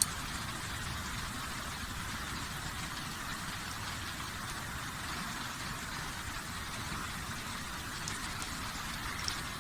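Wood campfire burning with a steady hiss and rumble, a few faint crackles about eight to nine seconds in.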